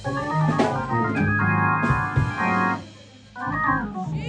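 Organ playing held chords that change step by step, dropping out briefly about three seconds in.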